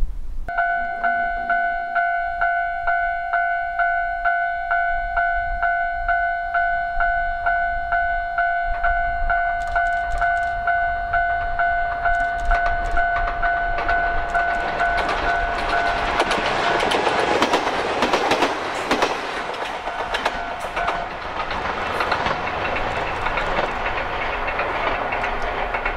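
Japanese level-crossing warning bell ringing in steady, rapid dings, two or three a second. From about halfway in, an Ichibata Electric Railway 2100 series electric train comes up and runs past, its running noise and wheel clatter over the rails swelling and drowning out the bell.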